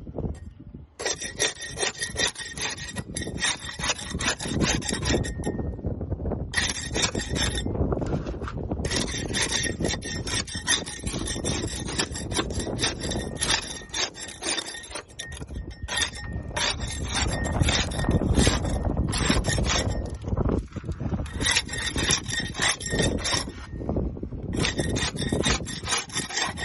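Barnacles being scraped off a boat hull: rapid, rasping scraping strokes in runs of several seconds, with brief pauses between runs.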